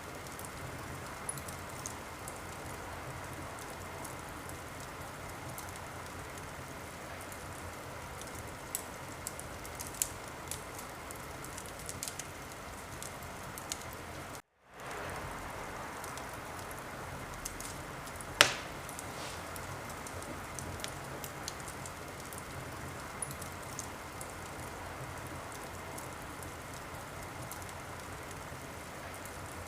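Wood fire crackling in a fireplace: a steady hiss with scattered small pops and one loud pop about two-thirds of the way through. The sound cuts out for a moment about halfway, then fades back in.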